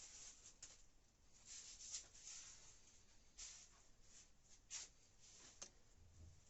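Near silence with faint handling noises: light scraping and a couple of small clicks, about two-thirds of the way through.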